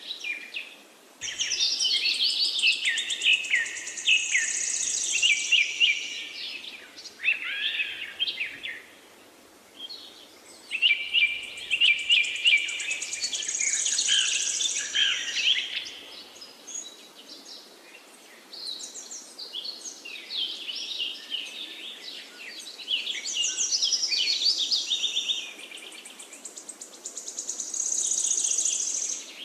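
A songbird singing long, varied phrases of rapid chirps and trills, each lasting a few seconds, with short pauses between them.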